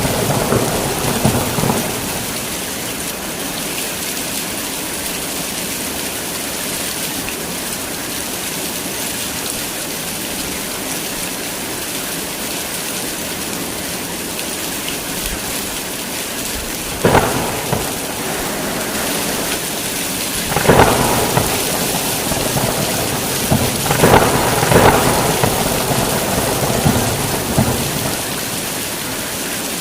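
Heavy rain falling steadily, with thunder: the end of a rumble in the first couple of seconds, sudden claps a little past halfway and again a few seconds later, and a longer rumble near the end.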